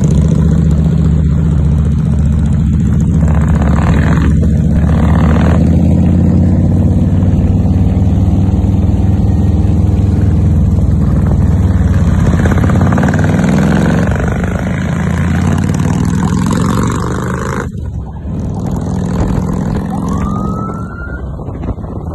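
Harley-Davidson touring motorcycles' V-twin engines running at a steady cruise, a loud low rumble that eases off about two-thirds of the way through. A short rising tone sounds near the end.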